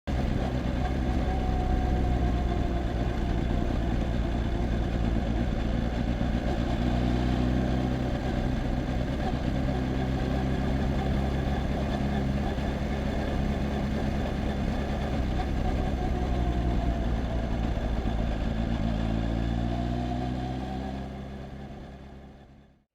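Kawasaki Z H2's supercharged inline-four running steadily as the motorcycle is ridden, its pitch rising gently twice with the throttle. The sound fades out near the end.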